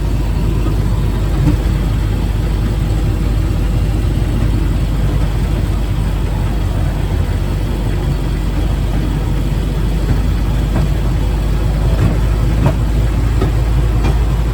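Railroad speeder's engine running with a steady, loud noise, heard from aboard the car, with a few faint clicks in the last few seconds.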